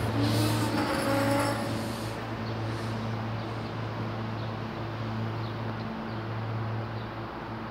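SEPTA Silverliner IV electric commuter train's rumble fading out over the first two seconds as it leaves, giving way to a steady low electric hum. Faint high chirps come in the second half.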